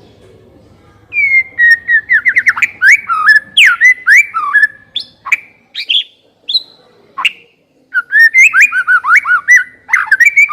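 White-rumped shama singing a fast, varied run of loud whistled phrases, starting about a second in, with a short pause a little past halfway before the song picks up again.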